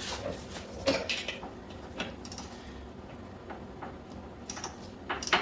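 Scattered metal clinks and clicks of hand tools and small parts being handled, the sharpest about a second in and near the end.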